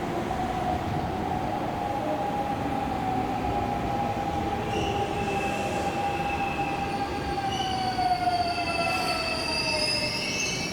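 Kintetsu electric commuter train moving through the station over a steady rumble, with a motor whine that slowly falls in pitch. High squealing tones come in about halfway through.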